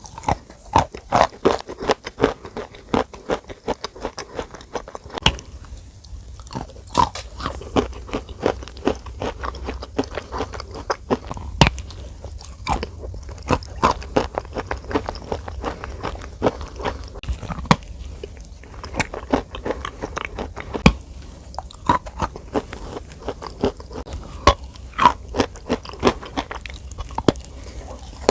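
Close-up crunching and clicking, irregular and dense, several sharp crackles a second.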